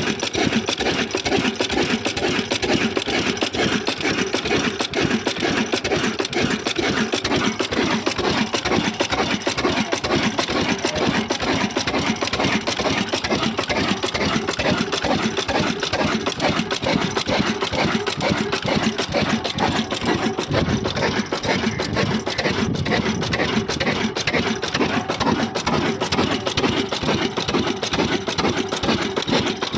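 Old black Hornsby diesel engine running steadily with a fast, even beat, its note growing a little deeper about two-thirds of the way through.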